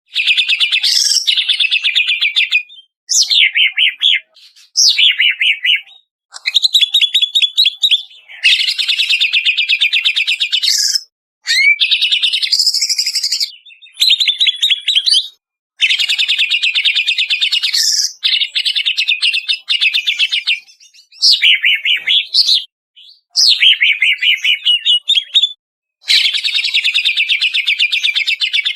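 Cucak ijo (greater green leafbird) singing in a recording used as training audio for caged birds: about a dozen bursts of rapid, stuttering high trills and chatter, some ending in quick swoops up or down, each a second or two long with sudden silent gaps between them.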